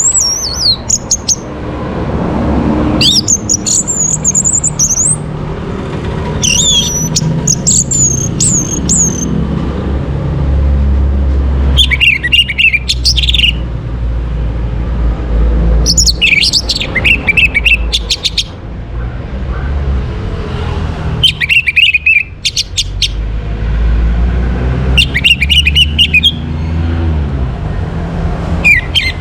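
Orange-headed thrush singing, with short varied whistled phrases about every four seconds, over a steady low rumble.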